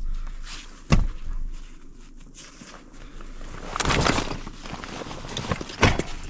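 Sharp knocks about a second in and again near the end, with a longer scraping, rustling noise in between.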